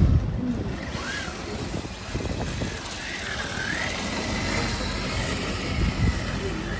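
Car meet background: a steady low rumble of vehicles, with a faint high whine that wavers up and down in pitch around the middle.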